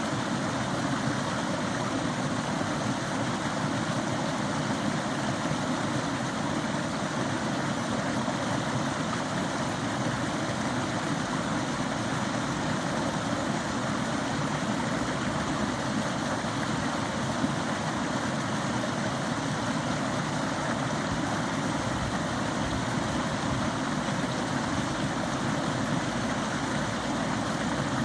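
A forest stream flowing, a steady rush of running water with no change.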